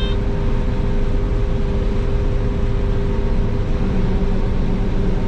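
Combine harvester running steadily while harvesting soybeans: a constant low rumble with a steady hum, and a lower hum joining about four seconds in.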